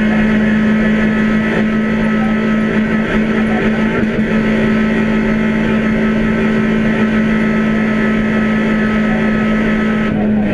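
Rally car engine held at high, steady revs, heard from inside the cabin, with road and drivetrain noise under it.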